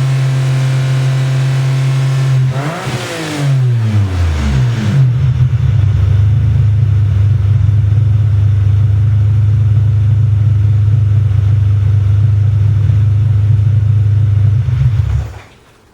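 Ferrari 550 Maranello's V12 exhaust, through Tubi Style rear mufflers and an X-pipe, holding a steady raised speed. About three seconds in it gives one quick rev that rises and falls, then it settles to a lower steady idle for about ten seconds. Just before the end the engine is switched off and the sound stops suddenly.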